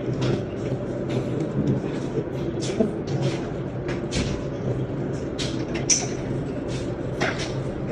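New York subway station ambience: a steady low rumble with many short, sharp clicks and hisses scattered through it.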